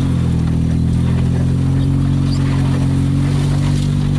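Toyota Tercel's four-cylinder engine running at a steady pace while driving, its crankcase filled with gear oil instead of motor oil. The engine note holds one even pitch.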